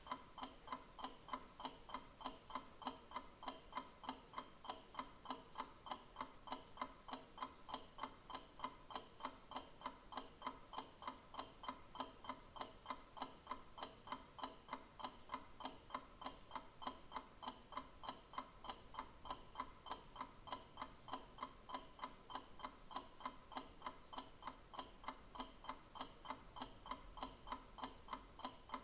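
A clock ticking steadily at about two ticks a second.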